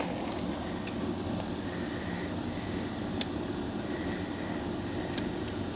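Steady low background rumble with a few sharp light clicks, one about three seconds in and another near the end.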